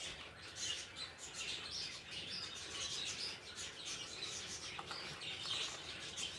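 Birds chirping continually, with many short chirps overlapping.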